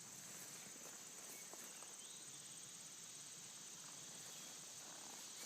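Faint outdoor quiet with a steady high-pitched chorus of crickets or similar insects.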